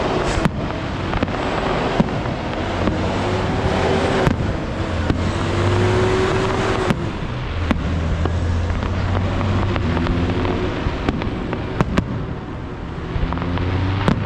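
Fireworks show: sharp bangs of shells bursting, some in quick pairs, over a continuous dense din of crackling and rumbling.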